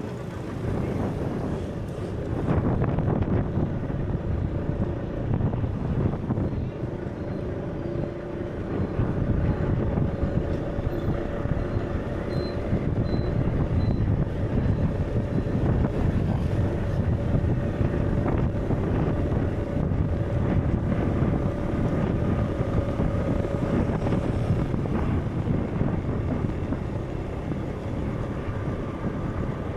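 Steady low rumbling wind-like noise with faint held tones above it.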